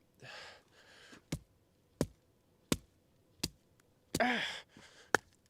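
Axe chopping into a rain-soaked piece of firewood: four quick, evenly spaced blows about 0.7 s apart, then one more near the end.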